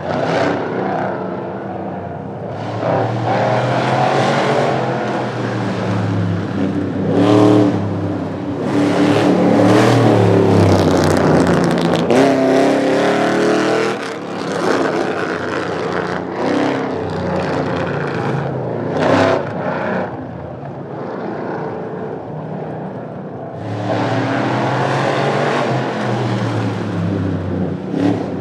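Car engines in spectator drag racing, accelerating hard and passing one after another, the engine note rising and falling with each run.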